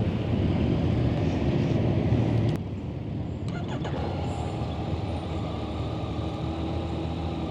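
Motorcycle engine running, heard through the rider's helmet microphone with road and wind noise. About two and a half seconds in, the sound drops suddenly to a quieter, steadier engine note.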